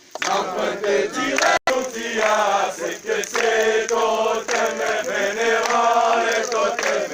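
A group of voices singing a chant together; the sound drops out for an instant about a second and a half in.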